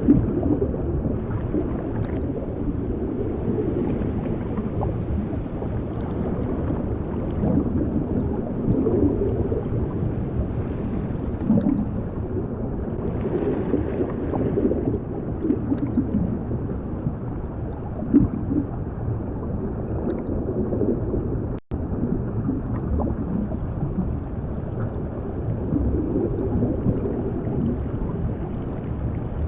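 Underwater ambience of bubbling and gurgling water over a steady, muffled low rumble. It breaks off for a split second about two-thirds of the way through.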